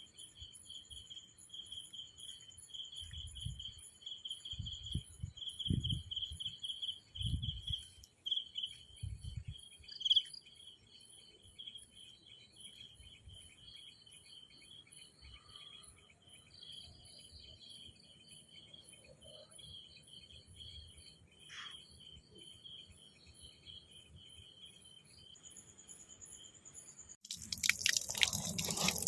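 Insects chirring in a steady, rapidly pulsed high trill, with a few low rumbles of wind or handling on the microphone a few seconds in. Near the end it cuts abruptly to a much louder rushing noise.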